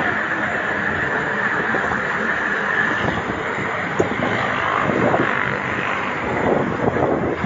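Steady rushing road and traffic noise heard while riding a bicycle, with some wind on the microphone. A single sharp click comes about four seconds in.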